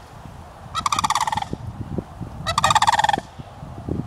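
Turkeys gobbling: two quick rattling gobbles about a second and a half apart, each dropping slightly in pitch.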